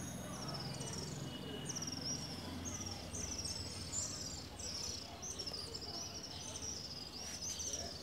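Birds chirping: a busy run of short, high, falling chirps, two or three a second, over a low steady background hum.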